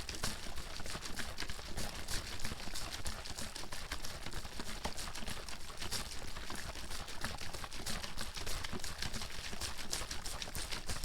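Plastic water bottle being shaken continuously, the water sloshing and slapping against the walls in a fast, irregular patter of splashes and knocks.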